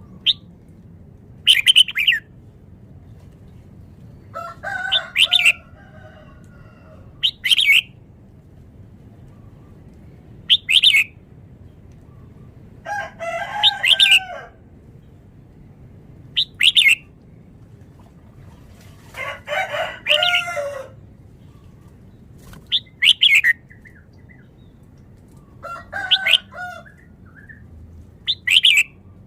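Red-whiskered bulbul singing short, bright, quick phrases every two to three seconds, about a dozen in all. A few of the phrases are longer, with lower notes.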